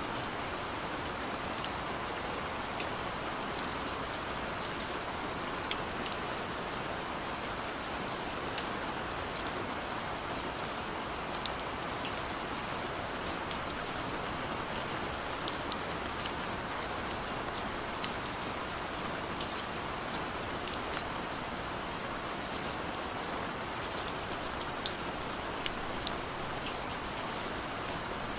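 Steady gentle rain: an even hiss of falling rain with scattered individual drops ticking sharply on a surface.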